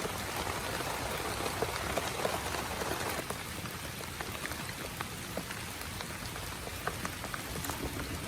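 Steady rain falling on a tent, with many separate drop hits ticking through the hiss.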